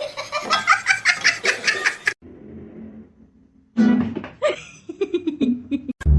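Laughter over light music, in two bursts about two seconds each, with a quiet gap between them.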